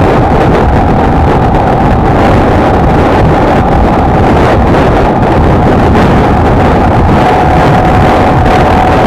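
Heavy wind buffeting on the microphone over a Honda XLR125R's single-cylinder engine at steady cruising speed, with a faint steady whine.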